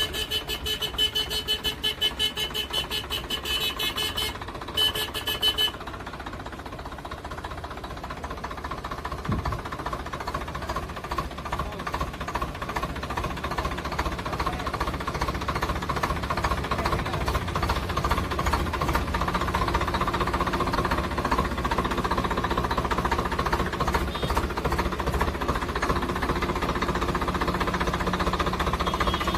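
Diesel tractor engine running with a knocking beat, growing louder after the first several seconds and then holding steady. A rapidly pulsing high-pitched sound plays over it at the start and cuts off about six seconds in.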